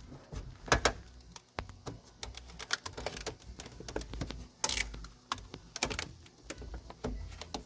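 Irregular clicks, taps and rattles of hands working inside a pickup's door cavity, feeling for the rear door latch cables, with a couple of louder scrapes.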